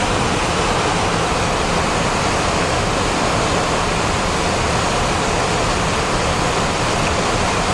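Steady flight-deck noise of a Boeing 737-400 in flight: an even rushing hiss of airflow and ventilation, unchanging throughout.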